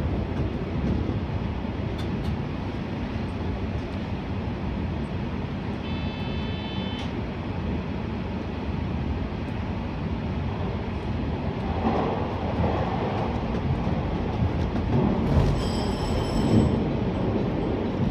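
485-series electric train running through a tunnel, heard from the front of the train: a continuous low rumble of wheels on rail. Brief high-pitched squeals come in about six seconds in and again near the end, as the running noise grows a little louder.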